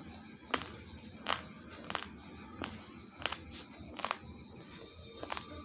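Raw basmati rice being chewed: a run of sharp, dry crunches about every two-thirds of a second as the hard grains crack between the teeth.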